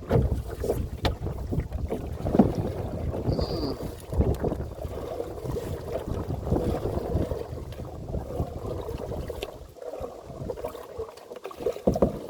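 Canoe paddling against the wind: paddle strokes in the water, with wind rumbling on the microphone and a few sharp knocks.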